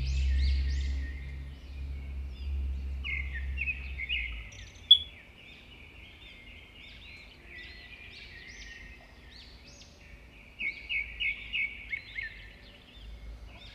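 Small birds chirping in a run of short, repeated chirps, with a quick bright series of them near the end. A low rumble sits under the first few seconds, and a single sharp click comes about five seconds in.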